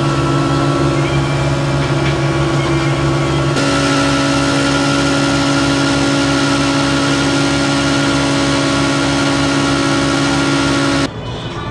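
Massey Ferguson 399 tractor's diesel engine running steadily under load while pulling a slurry tanker, its note changing about three and a half seconds in; the sound cuts off suddenly near the end.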